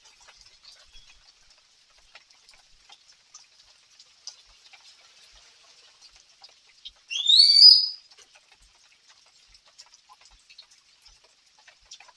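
Light rain patter, faint ticks and drips over a soft high hiss. About seven seconds in, a single loud whistle-like call rises in pitch and lasts under a second.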